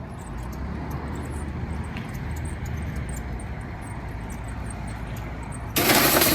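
Steady low rumble, then a sudden loud burst of noise about six seconds in, lasting about half a second: a car being hit in a staged collision.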